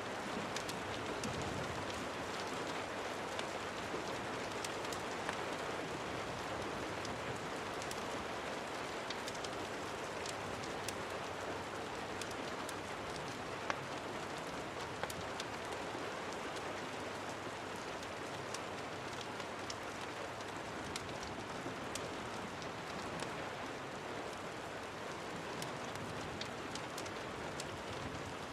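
Steady rain falling, a constant hiss with many scattered sharp ticks of drops striking a surface.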